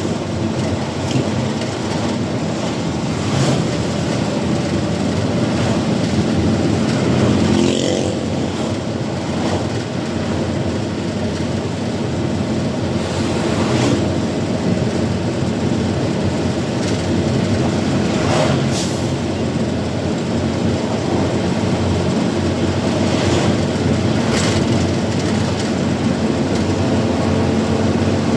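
Truck engine running steadily under way, with road noise, while the truck is driven; a few short hisses come through at intervals.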